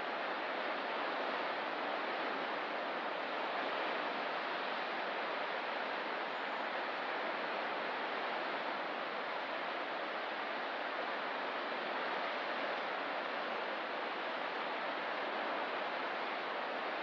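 Ocean surf: a steady, even wash of waves on the shore, with no single break standing out.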